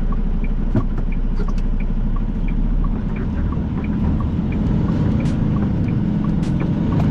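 Semi-truck diesel engine running from inside the cab while the truck is under way, its note rising and falling after about three seconds. A turn signal ticks steadily, a little under two ticks a second.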